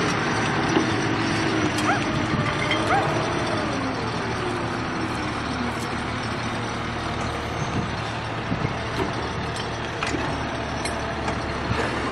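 Heavy vehicle's engine running steadily, with one tone sliding down in pitch over a few seconds about two seconds in.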